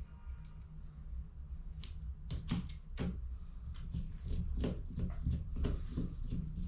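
Toner cartridge parts being handled: irregular light clicks and knocks, coming more often from about two seconds in, over a low steady hum.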